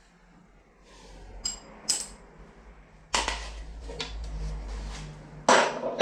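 Rusty metal parts of an old surgical table being worked loose: two short ringing metal clinks, then a sudden stretch of scraping and rattling, ending in two loud knocks.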